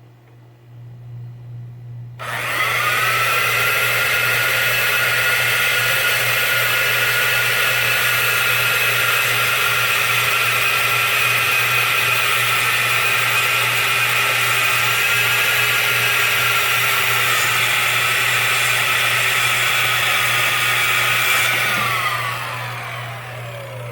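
A handheld electric power tool's motor starts about two seconds in and runs at a steady high whine for nearly twenty seconds. Near the end it winds down with falling pitch as it coasts to a stop.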